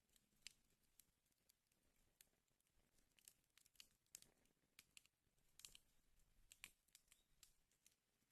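Wood fire burning in a fireplace, faintly crackling with irregular small snaps and pops, a few louder ones about halfway through and shortly before the end.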